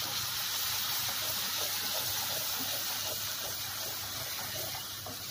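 Ginger, garlic and green chilli paste sizzling steadily in hot oil in a steel kadhai as it is stirred and fried, the hiss easing slightly towards the end.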